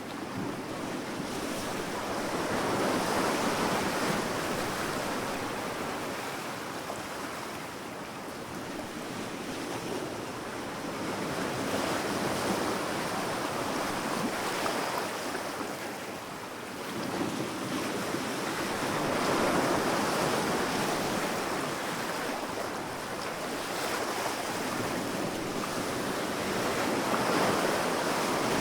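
Sea waves breaking on a sandy beach: a continuous wash of surf that swells and recedes, with a wave cresting about every seven to eight seconds.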